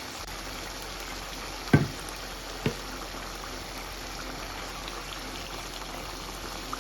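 Chicken and tomato sauce simmering in a pot, a steady bubbling hiss, with two sharp knocks about a second apart near the start.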